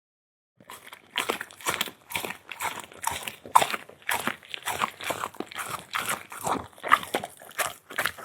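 A pet chewing and crunching food from a skewer close to the microphone, in a quick, even rhythm of about three or four chews a second.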